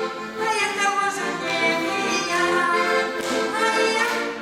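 Instrumental passage of a folk song played on accordion, a melody over held chords.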